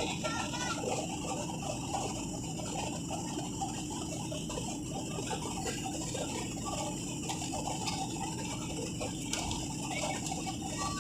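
Airliner cabin noise: a steady rumble of engines and airflow, with light irregular rattling and clicking through it.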